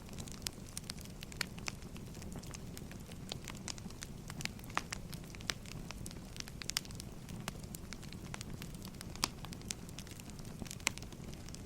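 Wood fire crackling: irregular sharp pops and snaps from burning firewood over a low steady rumble.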